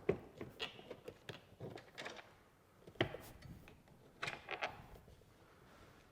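Scattered light clicks and knocks of hardware being handled as assembly studs are unscrewed from a tire carrier on a tailgate. The sharpest knock comes about three seconds in, and a short cluster of clicks follows a little past four seconds.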